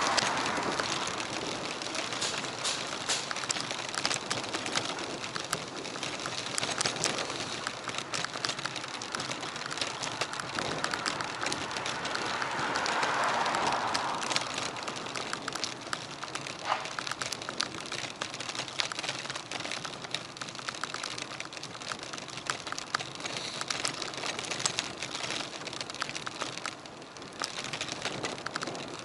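Wind rushing on an action camera's microphone while riding a bicycle, with a dense crackle of small clicks and rattles from the bike and road. The noise swells twice: at the start and again about halfway through.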